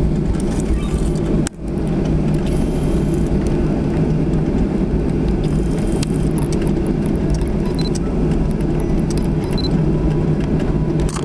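Steady low drone of an airliner's engines and cabin air heard from inside the passenger cabin while the plane taxis after landing, with a few light rattles and clicks. The sound drops out for a moment about one and a half seconds in.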